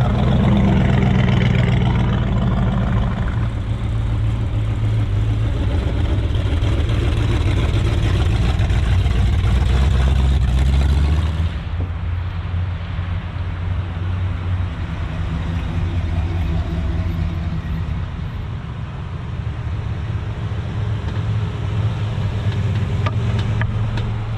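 Car engines running at low speed as cars roll past, a steady low rumble. About halfway through the sound changes as one car gives way to another.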